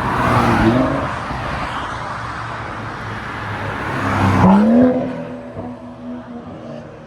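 Car engines accelerating hard past, the engine note climbing in pitch. It is loudest about half a second in and again about four and a half seconds in, then fades away.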